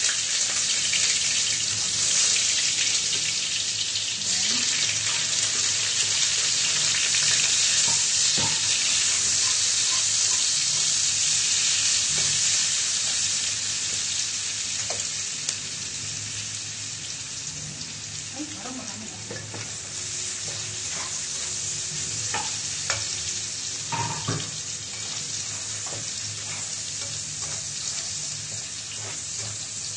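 Chopped garlic and sliced rings sizzling in a hot frying pan, stirred with a slotted spatula that knocks and scrapes against the pan now and then. The sizzle is loudest in the first half and slowly eases off.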